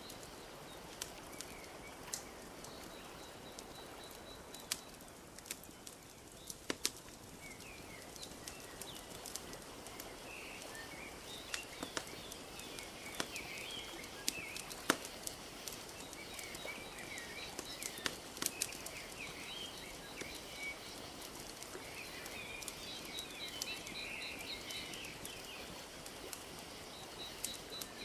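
Wood fire crackling with scattered sharp pops, over a soft steady wash of lapping lake water. Small birds chirp throughout, most busily in the second half.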